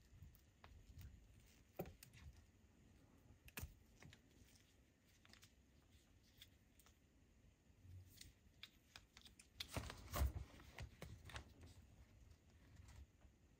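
Faint hands-on handling of unboxed accessories and their packaging: scattered light clicks and taps, with a brief burst of louder rustling and clicking about ten seconds in.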